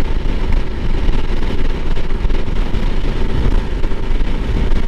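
Honda CRF300L Rally single-cylinder dual-sport motorcycle being ridden, its engine running under a steady rumble of wind on the microphone.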